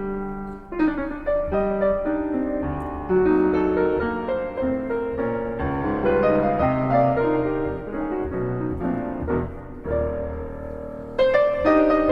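Background piano music: a melody of struck notes that ring and fade, one after another.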